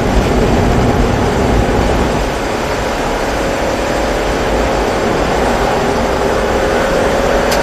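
Mazda 3 1.6's engine pulling under acceleration, heard from inside the cabin, over steady road and tyre noise on a wet track. A faint engine tone slowly rises from about three seconds in.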